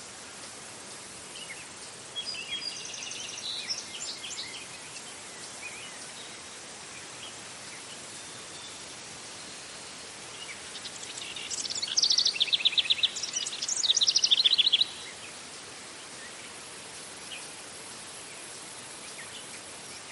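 Songbirds singing over a steady background hiss: a short phrase of high notes about two seconds in, then a louder run of fast repeated notes from about eleven to fifteen seconds in.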